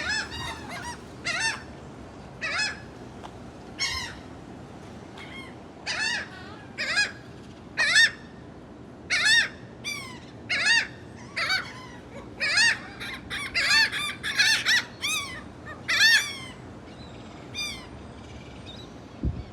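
Seagulls calling: a string of short, arched squawks, one every second or so, coming thick and fast for a few seconds just past the middle.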